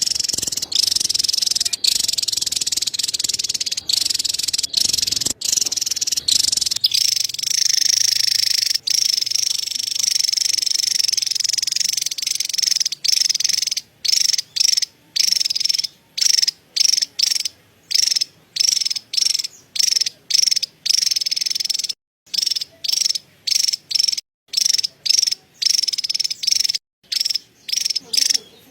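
Javan tesia giving its rapid, high-pitched chattering call (cerecet). The chatter runs unbroken for about the first half, then comes in short bursts about a second apart, with brief gaps between them.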